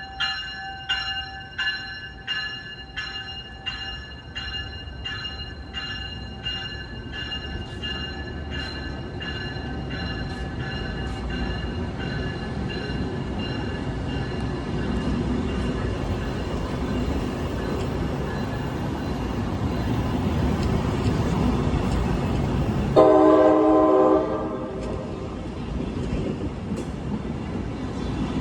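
A bell strikes about twice a second and fades out over the first dozen seconds, while the low rumble of a train grows louder. Near the end the locomotive horn sounds one short blast.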